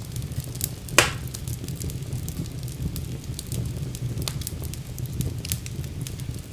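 Wood fire burning in a fireplace: scattered crackles over a low steady rumble, with one loud sharp pop about a second in.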